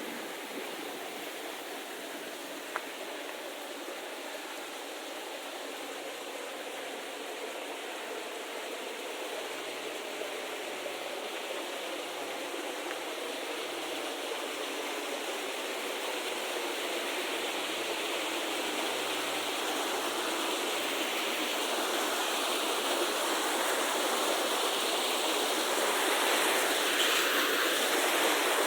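Steady rushing of flowing water, growing gradually louder.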